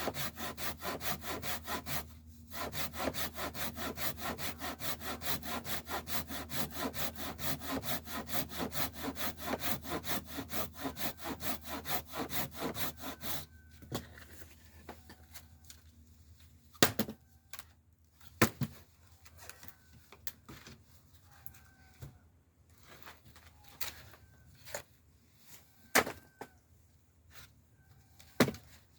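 Hand saw cutting scrap wood in quick, even back-and-forth strokes, with a brief pause about two seconds in. The sawing stops about halfway through, followed by scattered sharp knocks of wood.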